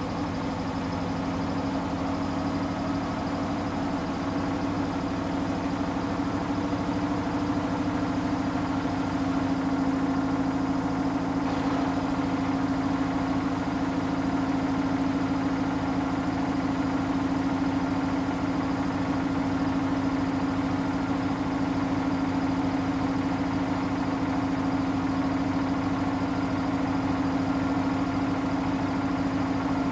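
Samsung Eco Bubble washing machine running mid-cycle on a cotton wash: a steady motor hum with a flat, unchanging pitch.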